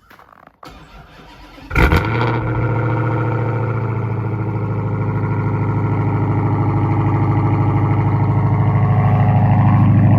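A Dodge Charger Hellcat's supercharged 6.2-litre HEMI V8 is cold-started at -11 °F. After brief cranking it catches with a loud flare a little under two seconds in, then settles into a steady high idle that slowly grows louder.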